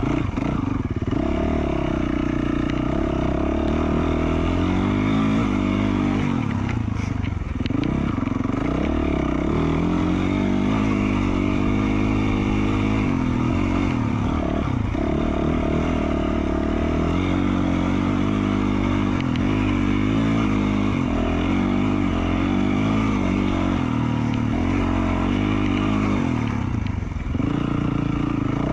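2020 Yamaha YZ450F dirt bike's single-cylinder four-stroke engine, fitted with an FMF Q4 slip-on muffler, being ridden hard, its revs rising and falling over and over with the throttle.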